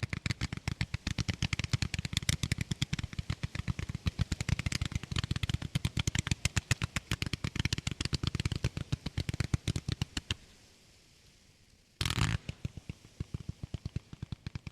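Consumer firework batteries firing rapid volleys of shots, about ten a second. The firing breaks off about ten seconds in, then a dense cluster of bangs goes off and rapid firing resumes.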